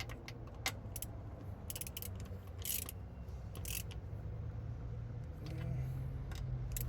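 Hand ratchet clicking in short runs as a transmission bolt is tightened down, with a steady low hum underneath.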